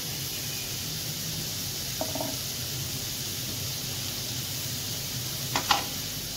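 Onions, green chillies and ground spices sizzling steadily in hot oil in a non-stick frying pan over a medium flame, with two brief clicks near the end.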